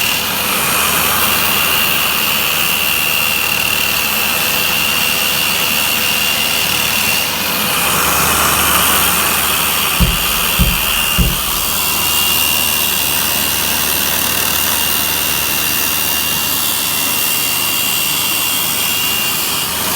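Angle grinder with a sanding head in a dust shroud, sanding log walls, running steadily with a high whine, while a Hilti vacuum draws off the dust. The whine drops out for a few seconds near the middle, and three short low thumps come about ten seconds in.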